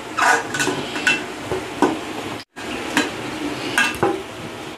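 Singaras sizzling in hot oil in a steel kadai while a perforated metal slotted spoon scrapes and clinks against the pan and a steel plate as they are lifted out. There are several short scrapes and a brief break about halfway.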